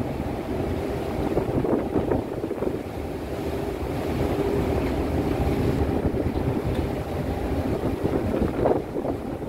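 Strong wind buffeting the microphone aboard a passenger ship at sea, over the rush of waves and a faint steady hum.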